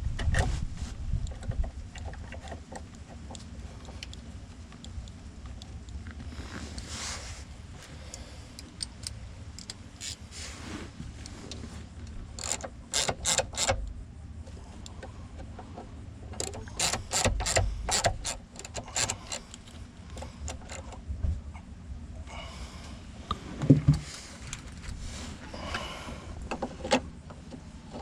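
Small parts of a steering-column ignition assembly clicking and rattling as they are handled and fitted together, in several short bursts of quick clicks, with a few heavier knocks near the end.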